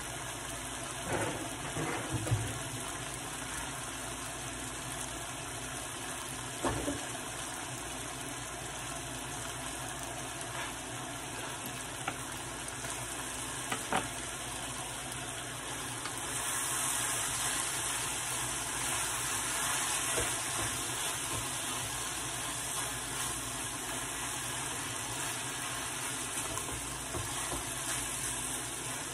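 Chicken and bell pepper strips for fajitas sizzling in a frying pan, a steady hiss that gets louder about halfway through. A few brief knocks sound early on.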